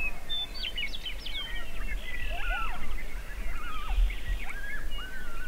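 Several wild birds chirping and whistling, with short overlapping calls that rise and fall in pitch, over a low, uneven rumble.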